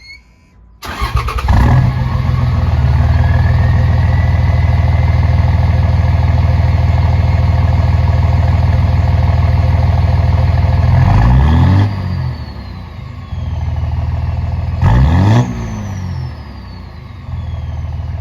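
2006 Ram's 5.9 Cummins inline-six turbo-diesel running under load, with an aftermarket Calibrated Power Stealth 64 turbo whistling and rising in pitch as it spools up. Twice, about eleven and fifteen seconds in, the engine note changes and the turbo whistle falls away as it spools down.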